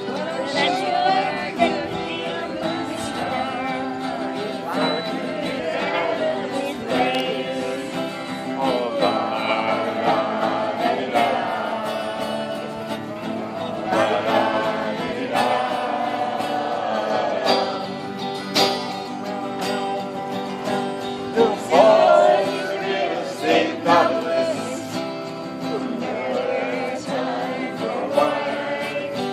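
A group singing along to a strummed acoustic guitar.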